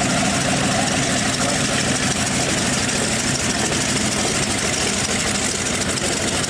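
Aircraft engine running steadily: a continuous, even noise with a low hum, no change in pitch or loudness.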